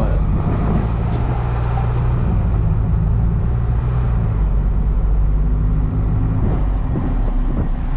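Hino cab-over box truck's diesel engine droning steadily with road noise, heard from inside the cab while driving. The engine note changes about four seconds in.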